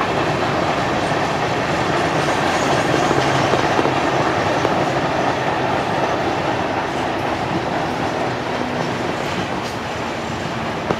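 Freight train of hopper and tank cars rolling past: steady noise of steel wheels on the rails, a little quieter near the end.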